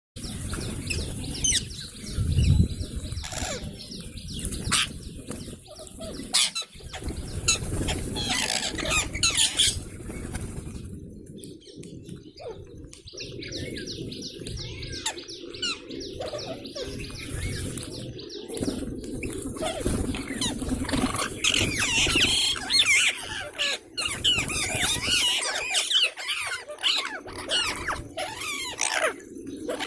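Many parrots calling together: a dense mix of overlapping chirps and squawks, busiest in the last third, with occasional sharp knocks.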